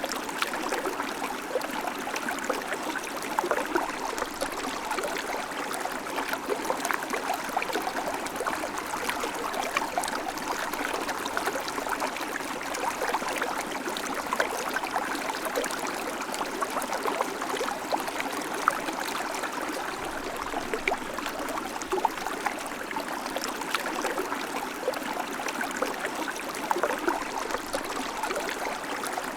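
River water flowing over stones, a steady babbling and trickling.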